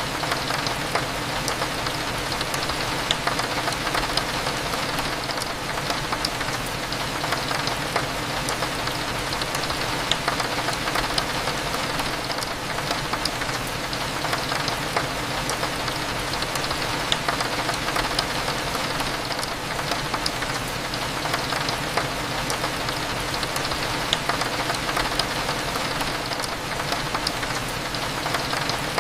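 Steady rain, with raindrops hitting a window in a dense stream of small ticks, over a low, even background hum.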